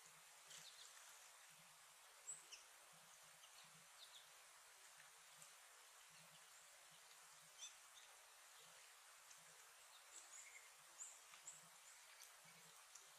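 Faint, short, high chips and tweets from small songbirds, scattered irregularly over a steady background hiss.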